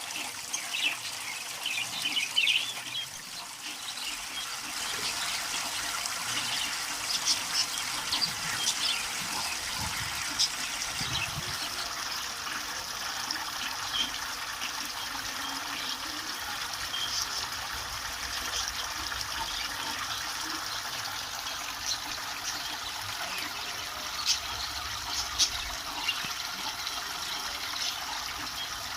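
Water trickling and splashing steadily from a homemade pump-fed bird shower, with scattered short, sharp high sounds.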